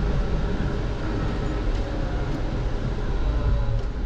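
1974 Ford F-250's 360 FE V8 engine running steadily as the truck backs up in low reverse gear.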